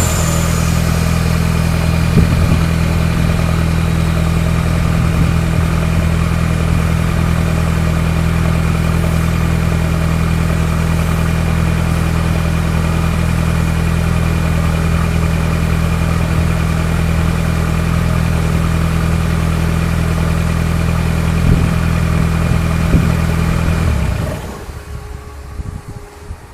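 Volkswagen Mk1 Golf's inline four-cylinder engine idling steadily, then switched off near the end, after which the sound dies away abruptly.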